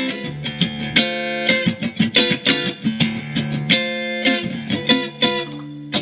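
Mexican-made Fender Stratocaster electric guitar in drop D tuning, freshly set up, being played: notes picked in quick succession over lower notes left ringing.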